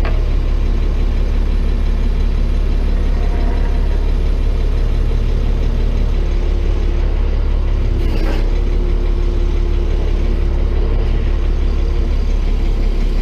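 Tow truck engine running steadily while its hydraulics draw the boom in, with a steady tone joining about halfway through.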